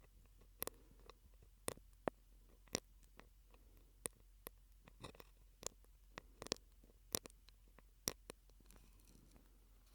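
Mouth sounds made through a drinking straw close to the microphone: sharp clicks and pops at an irregular pace, about one or two a second.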